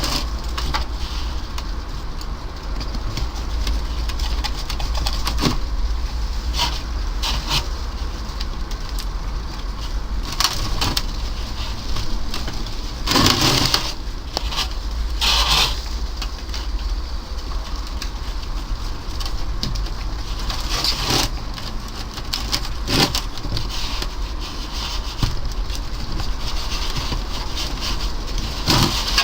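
Compost being scooped and dropped into a plant pot, in a few short rustling bursts over a steady low background rumble.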